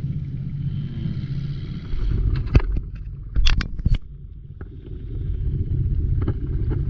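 Boat engine running steadily with a low rumble, with wind on the microphone and a few sharp knocks about halfway through.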